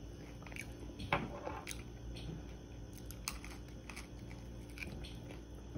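A person chewing crispy air-fried chicken wing tips: soft, irregular crunches and mouth clicks.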